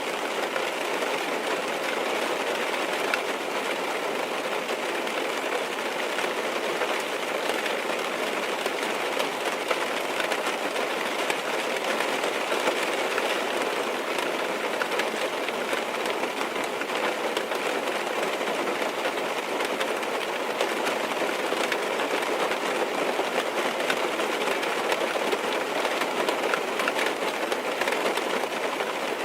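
Steady rain tapping on a car's windows and roof, heard from inside the car as an even hiss of many small drops.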